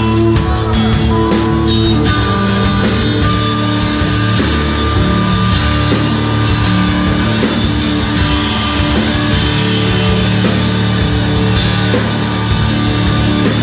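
Live rock band playing an instrumental passage with electric guitar, bass and drums; sharp drum hits in the first couple of seconds give way to sustained, held guitar chords.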